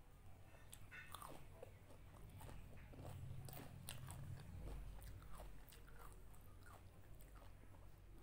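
Faint chewing of a mouthful of pani puri, with the crisp fried puri shells giving many short, sharp crunches at an uneven pace.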